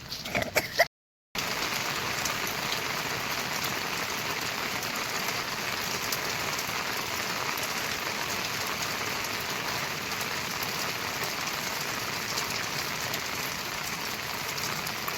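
Steady rain falling, an even sound of drops that runs on unchanged after a moment's dropout about a second in. Before the dropout there are a few brief, sharp sounds.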